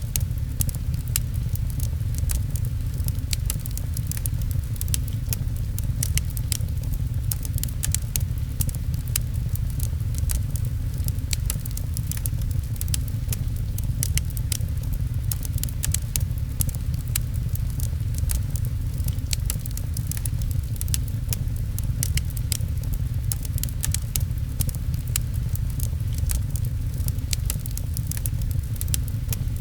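Fireplace crackling, with frequent sharp snaps and pops over a steady low rumble, mixed with rain pattering.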